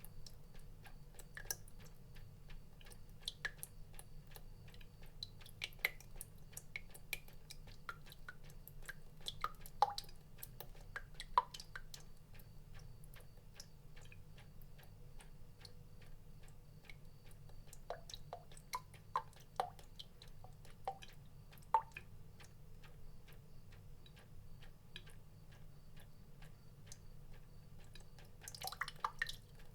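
Water drops falling at an irregular pace, each a short plink, some higher and some lower in pitch, between many fainter ticks. A faint steady low hum lies under them, and a quick flurry of drops comes near the end.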